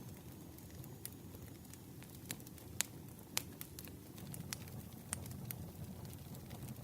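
Campfire crackling: scattered sharp pops and snaps over a low steady rush of burning wood, with two louder pops around the middle.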